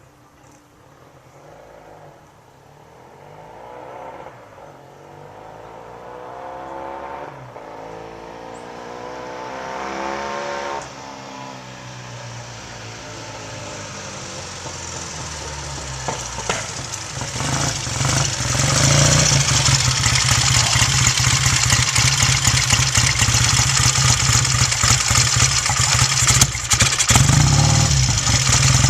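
1968 Triumph T100C's 500 cc parallel-twin engine running after a cold start, growing steadily louder with its pitch rising and falling as it is revved, then running loud and steady through the second half.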